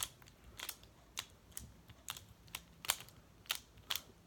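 Magnetic pyraminx being turned by hand: sharp plastic clicks as its layers are twisted, about two a second at an uneven pace.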